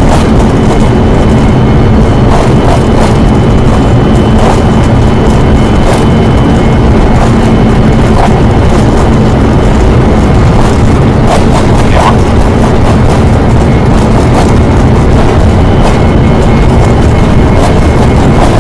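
Very loud, steady aircraft engine noise: a constant heavy rumble with a steady low hum and a thin high whine over it.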